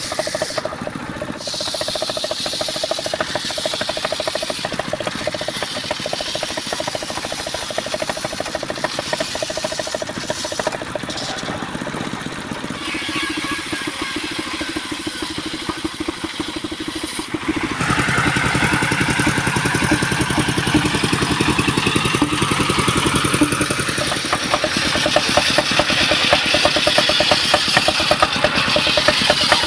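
Engine-driven sawmill machinery running with a steady pulsing; about eighteen seconds in it grows louder and a deeper hum joins in for several seconds.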